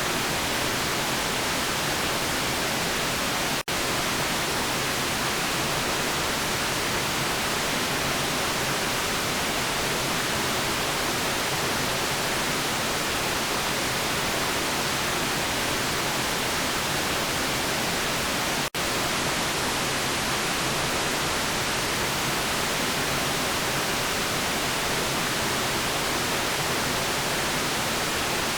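Steady synthetic white noise, an even hiss with no other sound in it. It cuts out for a split second twice, about three and a half seconds in and again near nineteen seconds.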